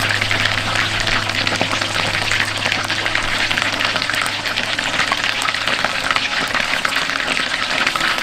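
Chicken pieces coated in potato starch deep-frying in hot oil: a steady, dense crackling sizzle.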